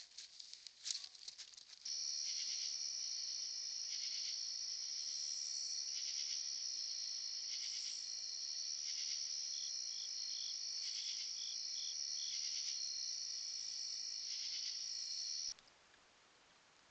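Insects trilling in a steady, high-pitched chorus that starts suddenly about two seconds in and cuts off abruptly near the end. Light clicking and patter come before it.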